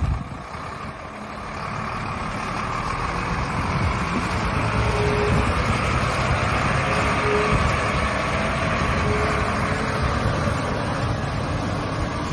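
Heavy diesel truck engine running, a Sinotruk HOWO dump truck, growing louder over the first few seconds and then holding steady. Short faint beeps sound about every two seconds.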